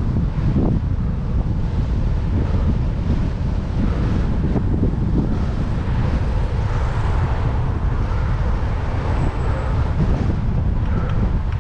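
Strong wind buffeting the microphone of a moving bicycle's camera: a heavy, unbroken low rumble with a rushing hiss above it.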